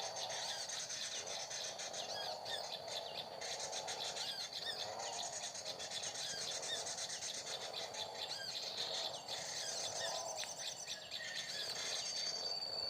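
Small birds chirping, with many short looping calls repeating over a steady high-pitched drone.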